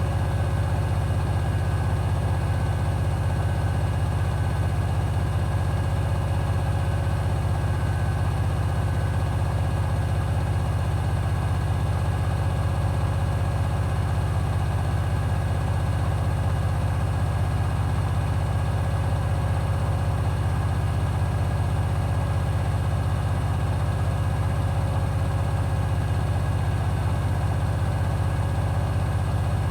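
Hoover HW411AMC front-loading washing machine spinning steadily at high speed in its final spin, a constant low drum-and-motor hum with a few faint higher tones, unchanging throughout.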